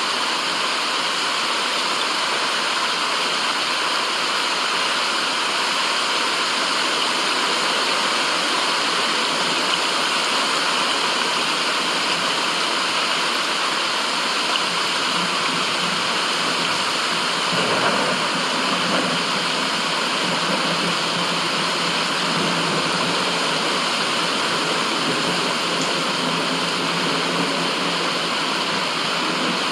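Steady rushing noise of flowing water, even and unbroken, with a brief slightly louder surge a little past the middle; played as white noise.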